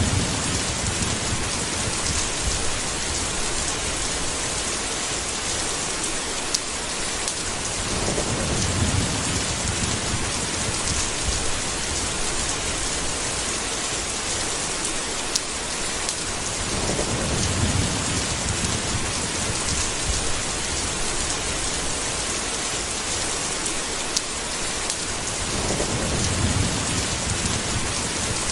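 Steady heavy rain with low rumbles of thunder that swell and fade three times, about every eight or nine seconds. A few single sharp ticks sound through the rain.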